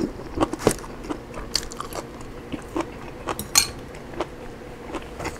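Close-up eating sounds: a person biting and chewing a mouthful of food, with irregular crunches and mouth clicks.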